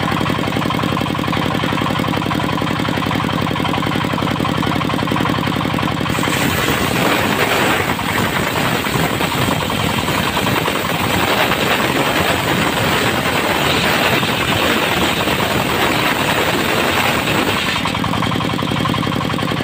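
Diesel engine driving a circular sawmill blade: the engine runs steadily, then about six seconds in the blade bites into a teak log and cuts for about twelve seconds with a loud, hissing rasp over the engine, before dropping back to the engine running free near the end.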